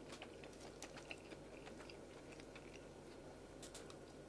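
Faint chewing and small scattered clicks of a person eating from a frying pan with chopsticks, over a low steady hum.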